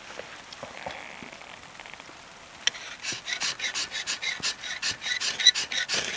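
A fast run of rhythmic scraping strokes, about five a second, with a faint ringing edge, starting a little under three seconds in and stopping at the end.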